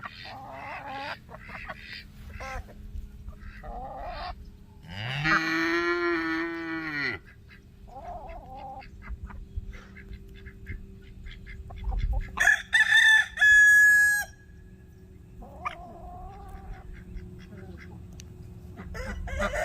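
Farmyard fowl calling: a rooster crows twice, about five and twelve seconds in, among many short clucking calls.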